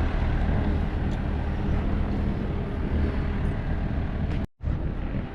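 Telehandler diesel engine running steadily at a constant speed, with a brief dropout about four and a half seconds in.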